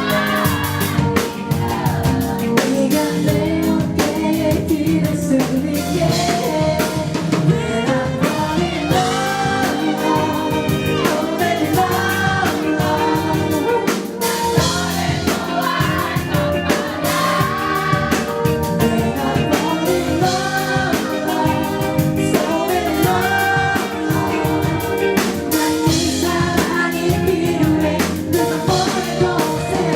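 A band playing a song live: a singer's voice over a drum kit and other instruments, at a steady full level.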